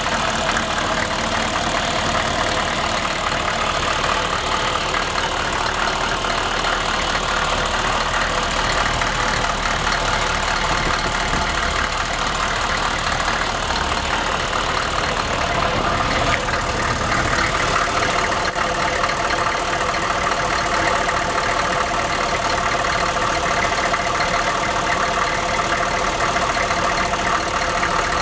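GM 6.5-litre turbo diesel V8 in a 1995 Chevy 1500, warmed up and idling steadily; the engine is freshly replaced and runs smooth.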